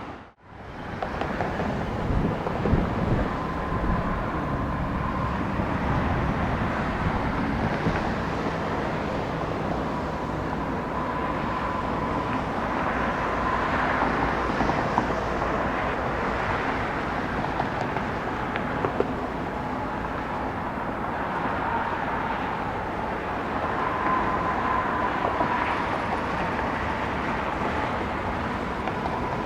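Steady rumble of jet engines running at an airport, with a faint high whine that comes and goes. The sound drops out for a moment at the very start.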